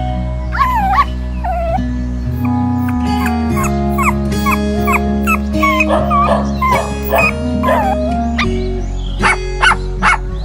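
Background music with sustained chords, over which a young animal gives many short, high-pitched whimpering cries that bend in pitch, coming thick and fast in the middle and as four sharp yelps near the end.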